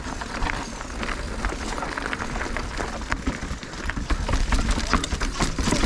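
Mountain bike riding down a rocky technical trail: tyres crunching over rock and a constant rattle of clicks from the chain and frame over a steady low rumble, getting louder toward the end.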